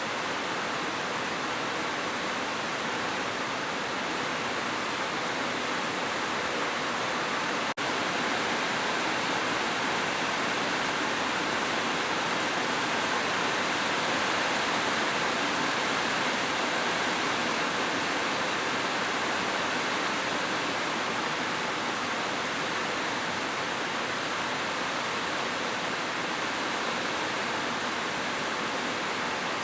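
Heavy rain falling as a steady, even hiss, with a brief dropout about eight seconds in.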